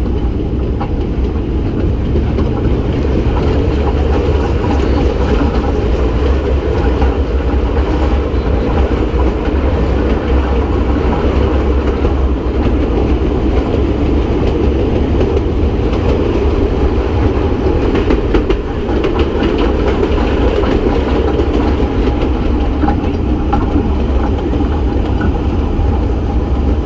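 Kurobe Gorge Railway's narrow-gauge train running along the track, heard from inside an open-sided passenger car: a steady rumble of wheels on rails with faint clicks now and then.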